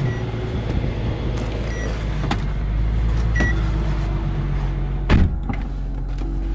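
Nissan 350Z running at idle, heard inside the cabin as a steady low drone. A few light clicks and one heavier thump about five seconds in.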